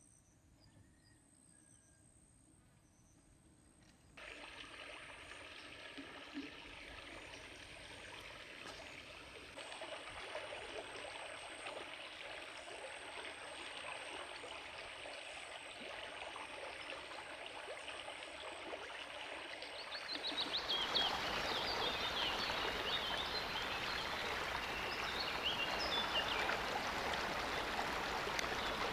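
Flowing stream water, a steady rushing that starts suddenly about four seconds in and gets louder about twenty seconds in, with high chirping over it in the later part.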